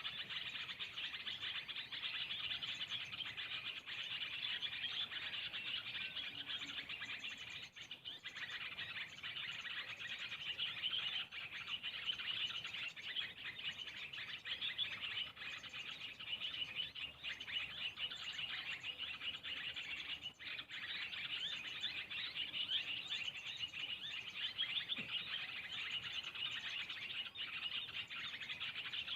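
Small birds chirping and twittering continuously, a dense unbroken chatter of short high chirps.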